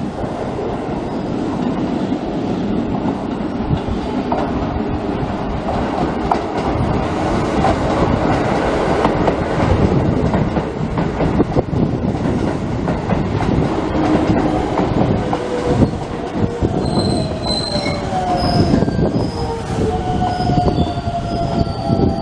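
Electric train moving through the station close by, its wheels rumbling and clattering over the rails. About three-quarters of the way in, high-pitched wheel squeals and sliding tones join in.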